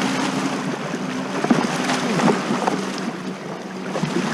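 Motorboat engine out on the lake running with a steady low hum, over wind noise.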